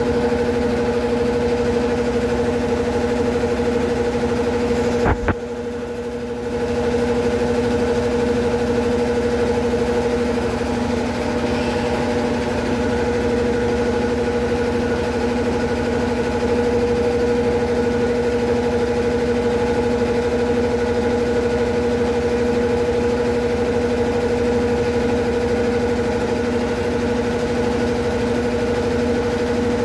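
Consul Facilite 11 kg top-loading washing machine running through its wash stage, a steady motor hum. About five seconds in there is a click, and the sound drops for about a second before the hum picks up again.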